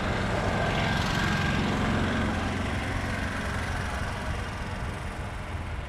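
Motor vehicle engine running nearby, a steady low hum with road noise that is strongest in the first couple of seconds and then eases off a little.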